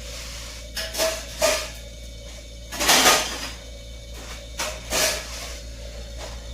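Compressor running with a steady hum, broken by irregular clattering knocks, about six of them, the loudest and longest about three seconds in: the abnormal noise that marks the compressor as faulty.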